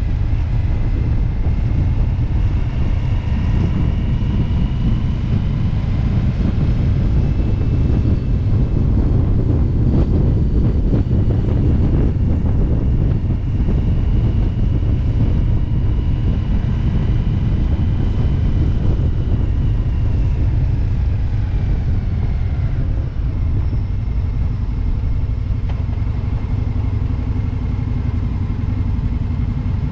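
Indian V-twin motorcycle running at road speed, a steady loud low rumble with a faint whine that rises and falls with speed and drops away around twenty seconds in.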